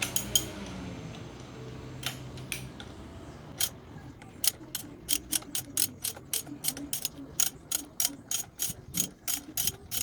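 Ratchet wrench clicking as it is swung back and forth, unscrewing an already-loosened bolt on a motorcycle front fork. A few scattered clicks at first, then an even run of about four clicks a second from a few seconds in.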